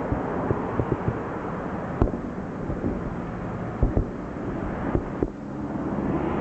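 Aerial firework shells bursting in a rapid, irregular string of booms, heard from afar over a steady rushing noise; two sharper bangs come about 2 and 4 seconds in.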